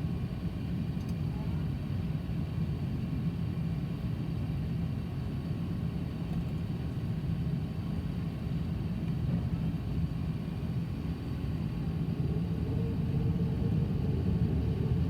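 Steady low rumble of the Airbus A380-800's Rolls-Royce Trent 900 engines running, heard inside the cabin. A faint steady hum joins about twelve seconds in.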